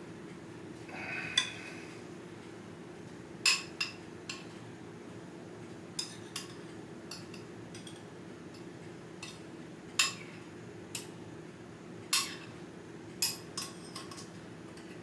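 Utensils clinking and scraping against a plate as food is served onto it: about a dozen short, sharp clinks at uneven intervals, with a brief ringing scrape about a second in.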